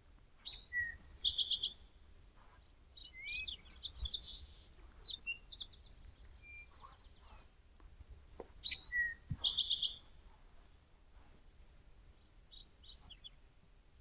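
Songbirds singing in the forest: one bird sings the same short, high phrase twice, about eight seconds apart, with other chirps and notes between and near the end.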